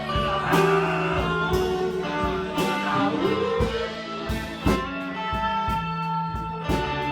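Live rock band playing an instrumental passage, electric guitar to the fore over bass and a steady beat, with a note that slides upward about three seconds in.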